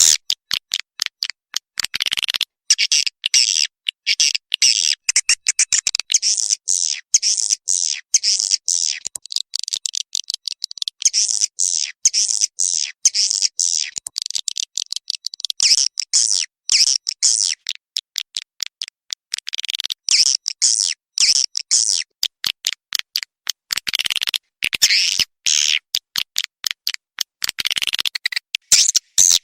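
Swiftlet call recording used as a lure for swiftlet houses: rapid high-pitched chirping twitters in fast pulses, coming in runs of a few seconds with short pauses between.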